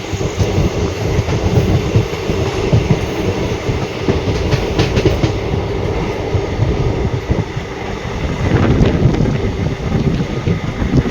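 Moving train running steadily, with a continuous low rumble and the rattle of wheels on the track, and a few sharper clacks about halfway through.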